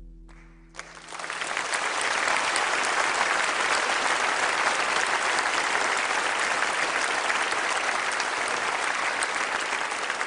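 A crowd applauding steadily, a dense even clapping that starts about a second in, as the last notes of soft ambient music fade out.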